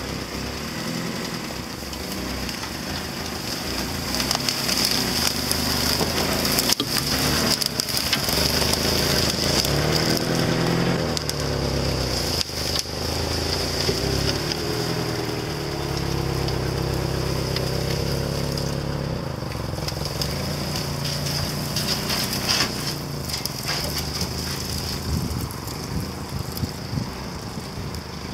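Lada Niva engine running under load as the car crawls off-road through dry grass and brush, its note rising and falling with the throttle. Stalks and twigs crackle under the tyres, with a couple of sharp snaps.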